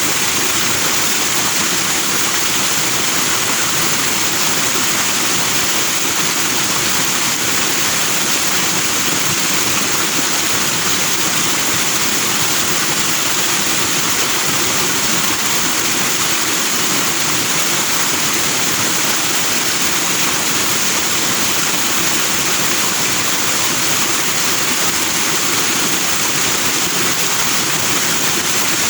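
Forest stream rushing over rocks in white foam, a steady, unbroken flow of water.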